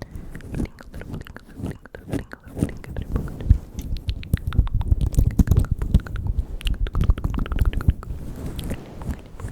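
Close-miked ASMR mouth sounds: a dense, irregular run of wet clicks and smacks from the lips and tongue.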